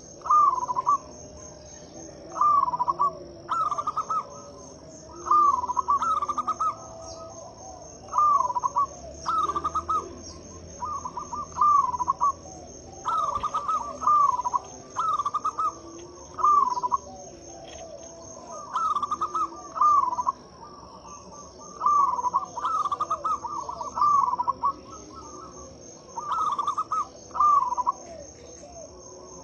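Zebra dove (perkutut) cooing, its short rolling phrases repeated every second or two. A steady high-pitched trill runs behind it.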